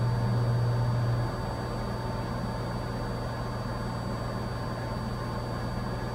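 Cessna 182's piston engine and propeller droning steadily in cruise, heard inside the cockpit. A low hum is louder for about the first second, then settles.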